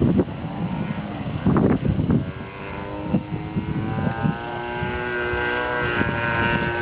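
Radio-controlled model airplane engine running in flight, a steady buzzing tone that grows louder from about halfway in. Wind buffets the microphone during the first couple of seconds.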